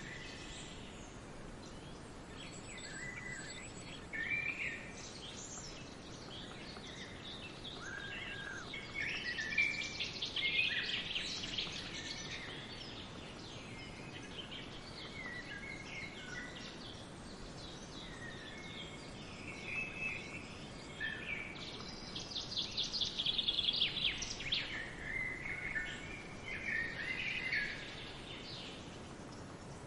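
Several songbirds singing and calling over a steady background hiss, with two stretches of rapid trilled song, one about a third of the way through and a louder one a little past the middle.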